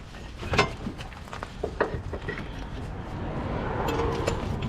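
Scattered metal clinks and knocks from hand tools and parts during work on a car's gearbox, irregular and a few per second.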